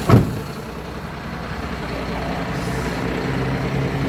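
UD Quester GKE 280 tractor head's diesel engine idling steadily, after a short loud thump right at the start.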